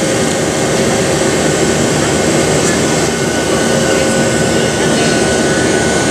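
Steady roar of a Boeing 737-700 cabin in flight: CFM56-7B turbofan engines and rushing airflow, with a few steady humming tones underneath.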